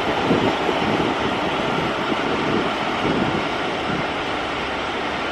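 BR Mk1 passenger coaches rolling slowly past: a steady rumble of wheels on the rails.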